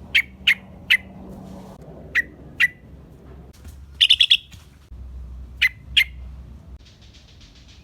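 Yellow-vented bulbul calling in short, sharp chirps spaced apart, with a quick run of about four notes around the middle and a faint buzzy trill near the end.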